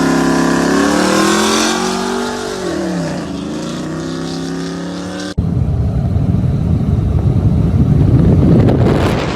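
A truck engine's pitched tone glides down over a couple of seconds, as a vehicle does when it drives past. After a sudden cut about five seconds in comes a louder, rougher engine rumble.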